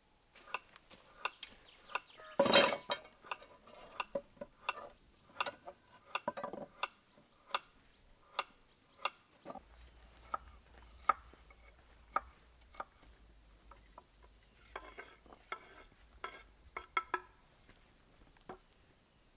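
Irregular light knocks and clinks, about one or two a second, with one louder clatter about two and a half seconds in.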